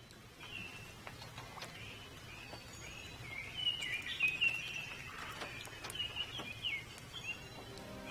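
Songbirds chirping and warbling in short repeated phrases, busiest around the middle, over a low steady outdoor background.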